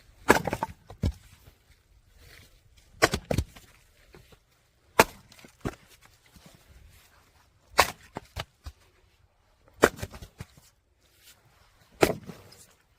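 Firewood being split: six sharp chopping strikes, about two to three seconds apart, each followed by a few smaller knocks as the pieces fall.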